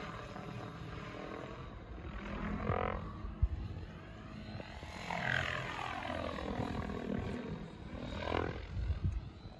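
Electric RC helicopter (PSG-Dynamics Seven, 12-cell brushless motor, 685 mm SpinBlades main rotor) flying, its rotor and motor sound rising and falling as it makes passes, with swells about three, five and eight and a half seconds in.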